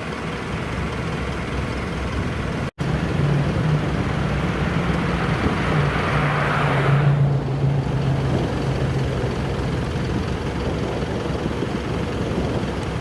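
Classic car engines running. The sound cuts out for an instant about three seconds in. After that a steady engine note comes through, and a louder rush swells and fades about halfway through as a car goes by.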